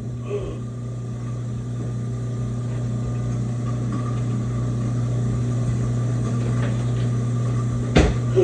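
Kitchen sink garbage disposal running with a steady low motor hum, and a sharp knock near the end.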